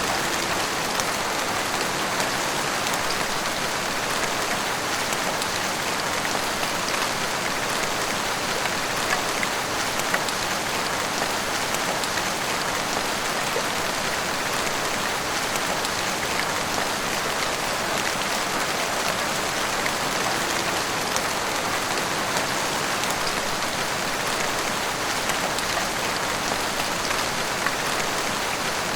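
Heavy rain pouring steadily, a dense even hiss with scattered individual drop ticks.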